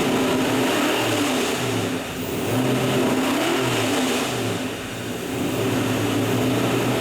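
454-cubic-inch big-block V8 running at idle, blipped up and back down several times in quick rises and falls of pitch before settling back to a steady idle.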